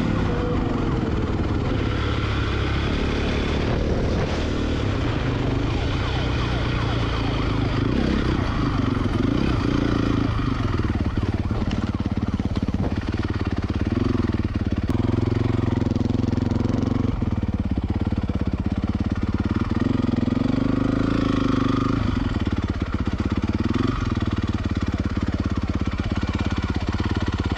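Dirt bike engines running and revving, their pitch rising and falling repeatedly as the riders open and close the throttle.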